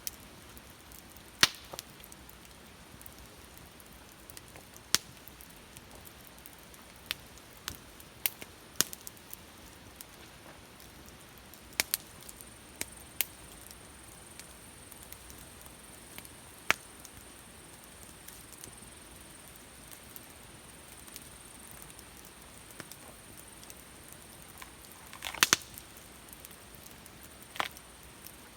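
Wood campfire crackling: sharp, irregular pops and snaps over a low hiss, with a quick cluster of louder pops near the end.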